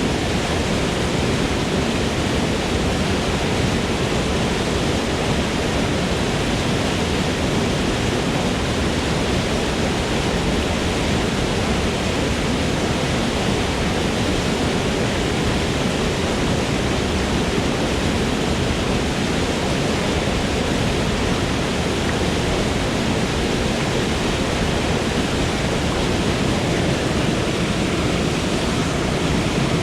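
Waterfall in a forest, its water falling and splashing in a steady, dense rush with no breaks or changes.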